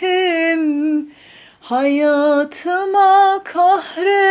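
A woman singing a slow Turkish song unaccompanied, holding long wavering notes, with a short breath pause about a second in.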